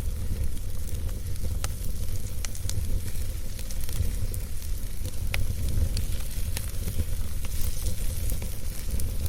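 Wood campfire burning, with sharp crackles and pops about every second over a steady low rumble.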